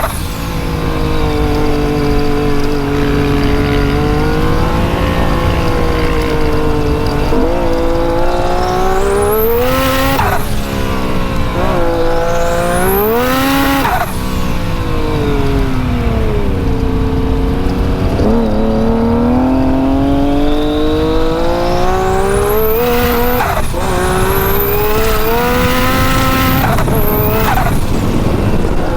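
Turbocharged Yamaha YXZ side-by-side's three-cylinder engine running hard in the dunes, revs rising and falling repeatedly as the throttle is worked. Several times a high whistle sweeps sharply up and back down with the hardest pulls. The engine runs on high boost, about 30 psi.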